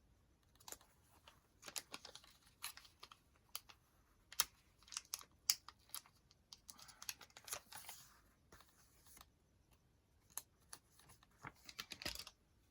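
Paper and craft materials being handled on a journal: scattered light clicks and taps, with brief rustles of paper about seven seconds in and again near the end.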